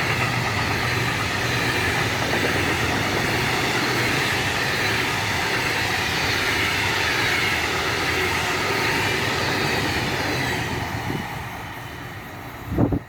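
A train rolling past on the line: a steady rumble and rolling wheel-on-rail noise that fades away over the last couple of seconds. A brief bump near the end.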